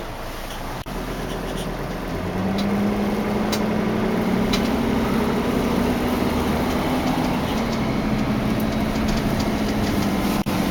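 2005 Dodge Sprinter's five-cylinder turbo-diesel engine running, heard from inside the van. About two seconds in it picks up and pulls louder, then holds a steady hum, with a few light clicks along the way.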